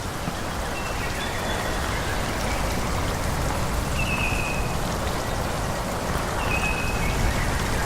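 Forest ambience: a steady, even rushing noise, with short high bird chirps a few times, the clearest about four seconds in and again near the end.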